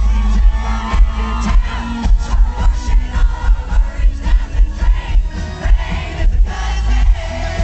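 Live country band playing with a steady beat and heavy bass, with singing and crowd noise mixed in.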